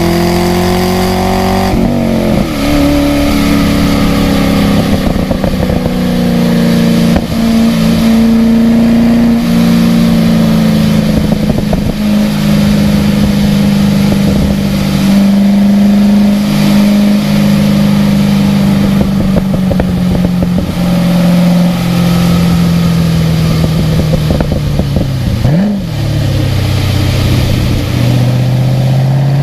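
Car engine heard onboard during a lap on a wet track: revs climb, then drop sharply about two seconds in as it shifts up, hold with a slow fall, give one quick blip near the end as it shifts down, and climb again. A steady hiss runs underneath.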